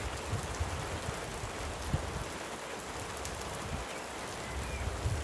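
Light rain falling, a steady hiss with scattered patter of drops, over an uneven low rumble. A faint single bird chirp comes near the end.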